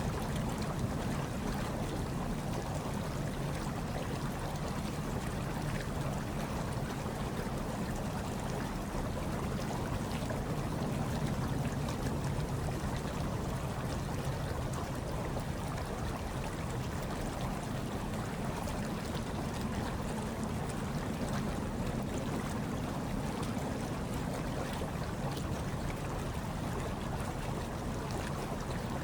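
Hot tub water churning steadily, a continuous low rumble with a soft hiss above it and no breaks.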